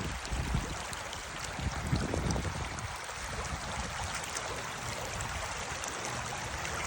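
Creek water running over rocks: a steady rushing, with some low rumbling in the first two or three seconds.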